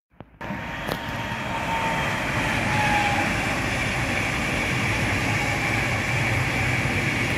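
Multiple-unit electric passenger train passing close at speed: a steady rush of wheels on rail that swells over the first couple of seconds and then holds, with a low hum growing toward the end.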